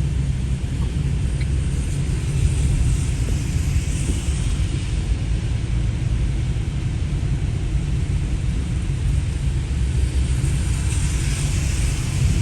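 Outdoor rain recording: a steady low rumble of wind buffeting the microphone under a hiss of rain that swells twice.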